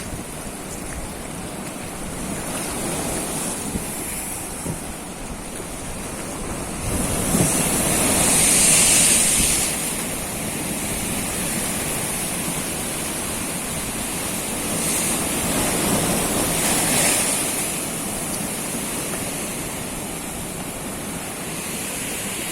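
Sea waves washing onto the shore, with wind on the microphone. Two waves break louder, about a third of the way in and again about two thirds in.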